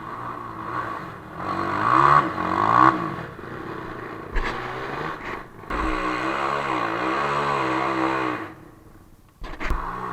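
Off-road vehicle engine revving up and easing off several times. The engine drops away about nine seconds in, then picks up again with a couple of knocks.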